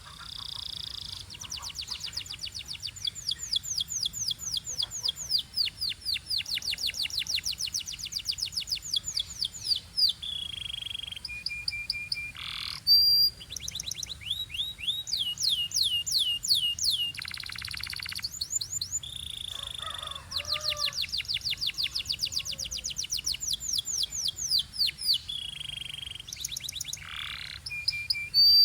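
Canary singing a long, varied song: fast rattling trills lasting several seconds each, alternating with held whistled notes and short gliding notes.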